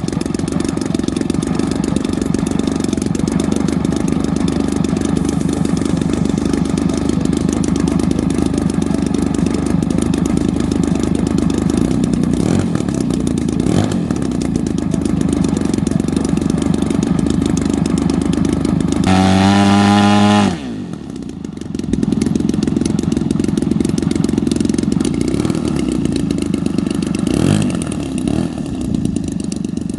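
RC model airplane engine running steadily. About twenty seconds in it runs up louder, then its pitch drops and it quiets for about a second before settling back to its steady running.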